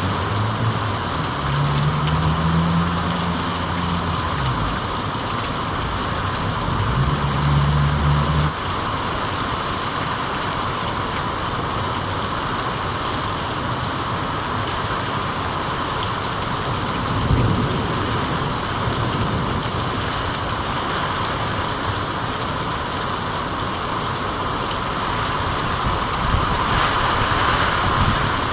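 Steady, even hiss of heavy rainfall. For the first eight seconds a low, pitched hum rises in pitch a few times, then cuts off suddenly. About halfway through there is a brief low thump.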